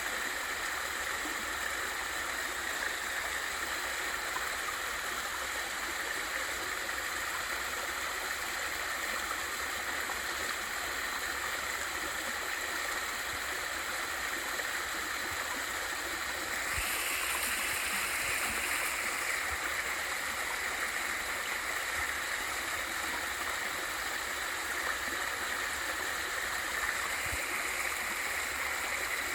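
Water rushing steadily over a small waterfall into a mountain stream: a continuous, even wash of falling and flowing water, briefly a little louder and brighter about two-thirds of the way through.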